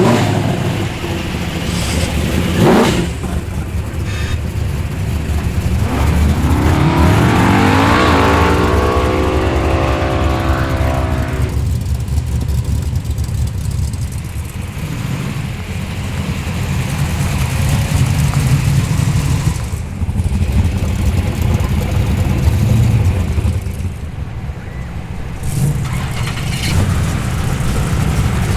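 Modified muscle car engines rumbling at idle, with one engine revved up about six seconds in, held for a few seconds and let back down.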